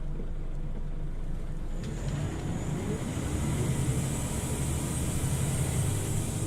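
Scania OmniLink CL94UB city bus heard from on board: the engine runs steadily at low revs, then about two seconds in the bus pulls away, with the engine note and a broad hiss rising as it gathers speed.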